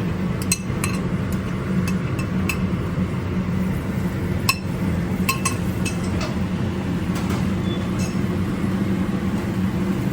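Utensil clinking against a hot sauté pan, about ten separate clinks, while diced onion, garlic and red pepper are stirred in olive oil. A steady low hum runs underneath.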